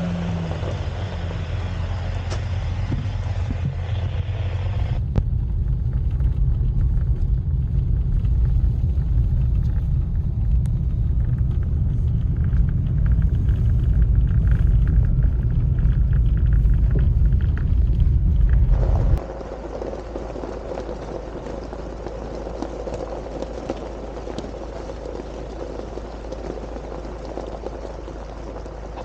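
Off-road vehicle driving on a backcountry trail: a steady low rumble of engine and tyres. It grows heavier through the middle, then drops abruptly to a quieter, steadier engine sound about two-thirds of the way in.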